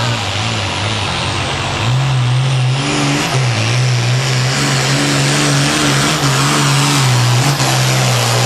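Ford hot farm pulling tractor's turbocharged diesel engine under full load on a pull. Its pitch sags about half a second in, climbs back near two seconds, dips briefly again around three seconds, then holds steady. The sags are typical of trouble keeping the turbo boost up.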